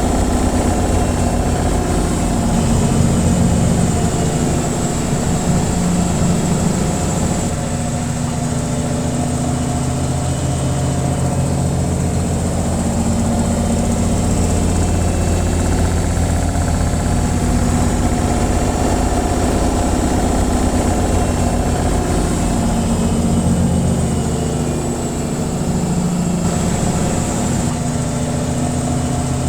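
Washing machine on its spin cycle: a steady whirring drone with a low hum that rises and falls a little.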